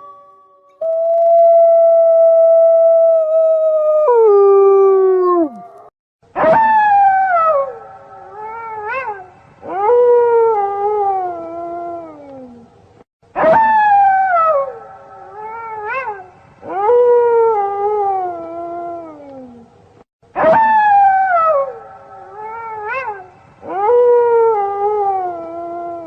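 A pack of wolves howling, several voices overlapping. It begins with a long, level howl that slides down at its end. Then comes a sequence of howls that start suddenly and glide down in pitch, and the same sequence repeats about every seven seconds.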